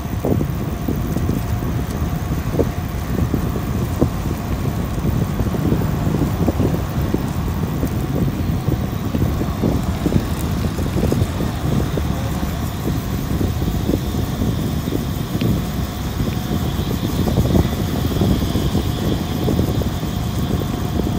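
Continuous rumbling noise of a bike ride under way: wind buffeting the microphone over road rumble, steady with constant fluttering.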